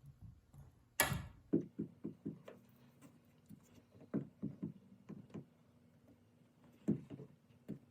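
A sharp knock about a second in, followed by a series of lighter, irregular knocks and clatters, over a faint steady hum.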